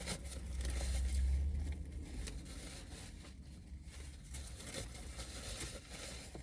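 A person biting into and chewing a sub sandwich, its paper wrapper crinkling, over a steady low rumble that is louder for the first two seconds.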